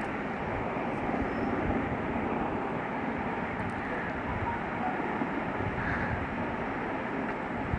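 Chicken curry cooking in a kadai on the stove, with a steady, even hiss.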